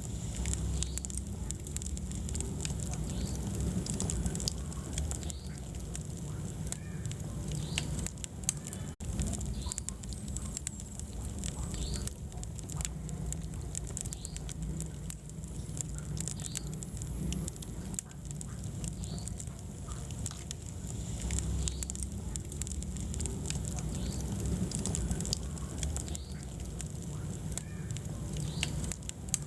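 Wood fire crackling in a fireplace: many small, sharp pops and snaps over a low, steady rumble of the flames.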